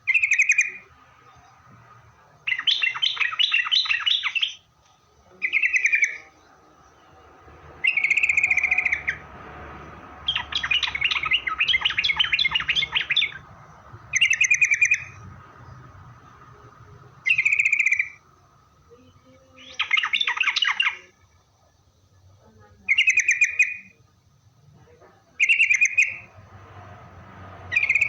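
Yellow-vented bulbul (trucukan) singing: short bubbly phrases repeated every two to three seconds, with longer chattering runs three times, about two, ten and twenty seconds in.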